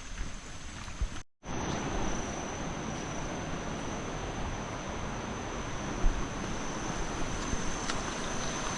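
Steady rush of waterfall water with the high, unbroken drone of insects over it; the sound starts after a brief dropout about a second in.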